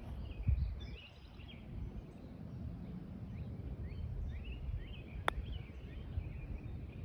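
Outdoor ambience of small birds chirping over a low rumble of wind on the microphone, with one sharp click about five seconds in.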